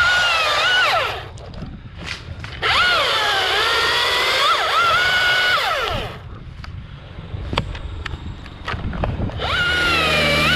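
Husqvarna T540iXP battery top-handle chainsaw running in three cutting bursts, its high electric whine dipping in pitch as the chain bites and recovering between cuts. Quieter pauses between bursts hold a few sharp clicks.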